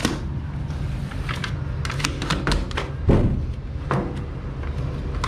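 Scattered light taps and clicks of hand work on an air-conditioning installation, with a dull thump about three seconds in, over a steady low hum.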